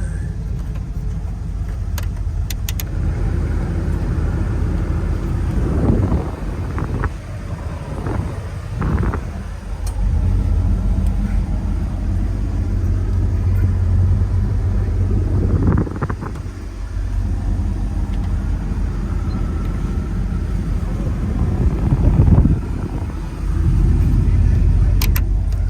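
A 1986 Ford F250's 460 V8 running through new exhaust and mufflers: a steady low engine note that dips and swells a few times as the engine speed changes.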